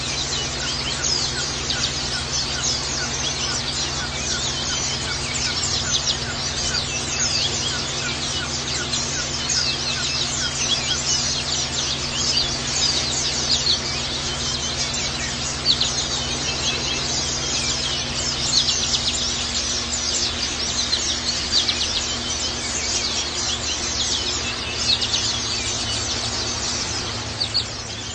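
Pleci (white-eye) birds chirping and twittering rapidly and without pause, over a steady low hum.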